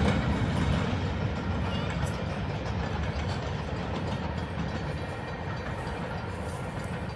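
A train rolling past on the rails and moving away: a steady low rumble of wheels with faint clicking, fading gradually.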